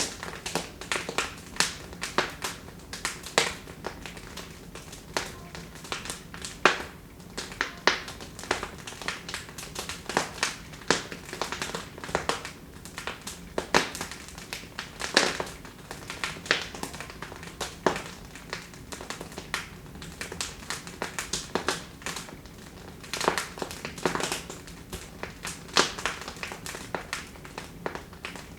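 Wood fire crackling in a fireplace: irregular sharp pops and snaps, several a second, some louder than others, over a faint hiss.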